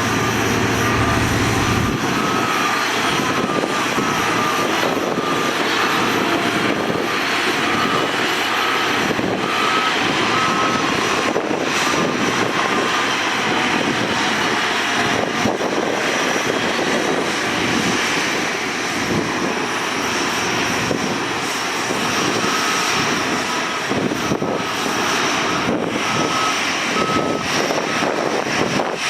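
Heavy diesel earthmoving machinery, a bulldozer and dump trucks, running steadily. A reversing alarm beeps at a regular pace, about once a second, for roughly the first dozen seconds, stops, and comes back for several seconds later on.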